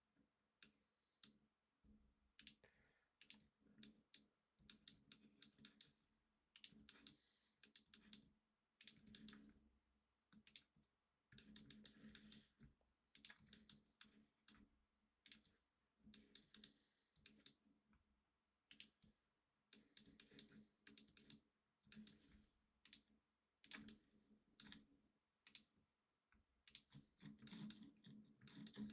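Faint, irregular clicking of a computer mouse and keyboard, in quick clusters with short pauses between them.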